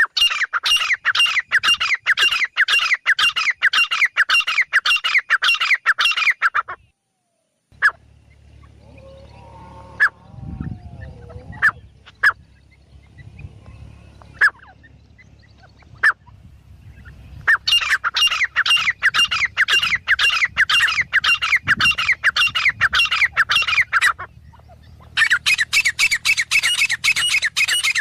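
Francolin (titar) calling: long runs of rapid, loud, harsh repeated notes, about three a second. They break off for roughly ten seconds in the middle, leaving a faint low hum and a few sharp clicks, then resume in two more runs.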